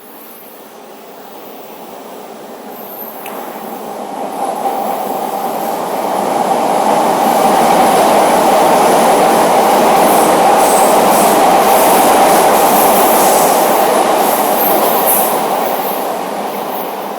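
Chicago CTA Red Line subway train running through the tunnel past the platform: its rumble swells over several seconds, holds loud for about seven seconds, then fades as it moves away.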